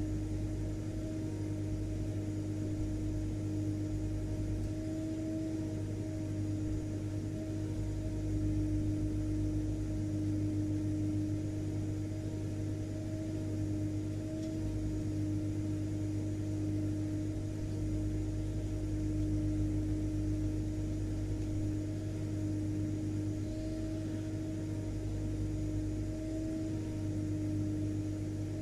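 Vacuum cleaner motor running steadily: an even drone with a low hum and a steady mid-pitched tone over a light rushing of air.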